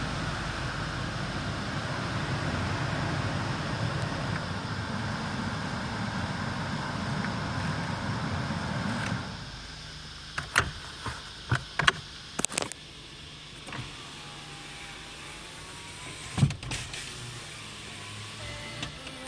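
Honda Civic engine running steadily, then falling off sharply about nine seconds in. A series of sharp clicks and knocks follows, and another comes a few seconds later.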